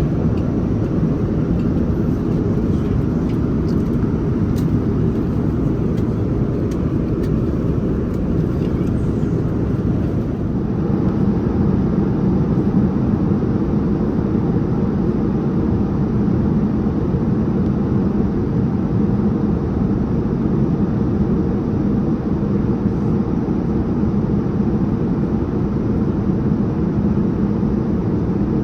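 Steady in-flight cabin noise of a Boeing 787-9 Dreamliner: the even, low rush of the engines and airflow around the fuselage, without a break.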